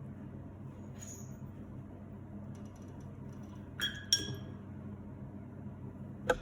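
A paintbrush clinking against a glass water jar: two sharp, ringing clinks a little over halfway through and a single sharp tap near the end, over a steady low hum.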